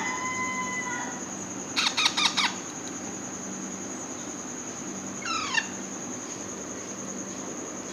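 Alexandrine parakeet chick squawking as it is fed: a quick burst of harsh squawks about two seconds in and a short call falling in pitch a few seconds later. A steady tone stops about a second in.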